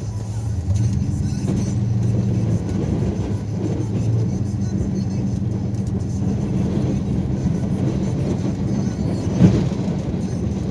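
Plow truck's engine running steadily, with one sharp knock near the end.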